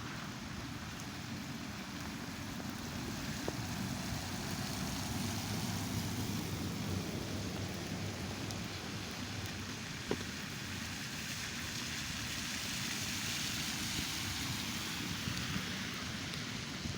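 Cars driving past, a steady mix of engine rumble and tyre noise that swells twice as vehicles go by.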